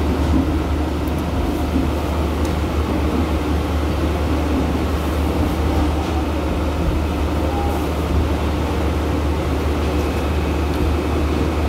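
Passenger train running, heard from inside the carriage: a steady low rumble with the hiss of the moving train.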